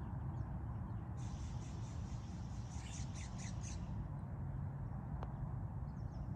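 Birds calling in short squawking bursts from about one to four seconds in, over a steady low outdoor rumble. A single faint click comes about five seconds in.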